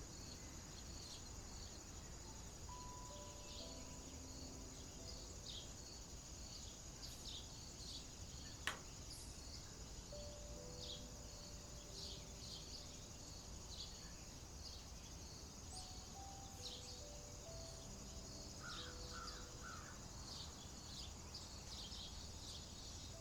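Steady insect chorus with short chirps repeating over it and a low rumble, under soft held music notes. A single sharp click sounds about nine seconds in.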